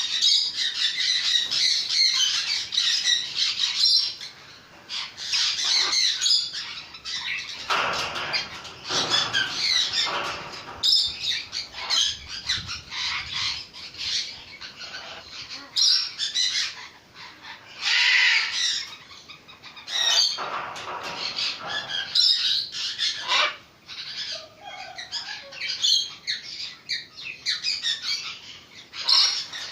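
Macaw parrot squawking over and over, a long series of loud calls with short pauses between them.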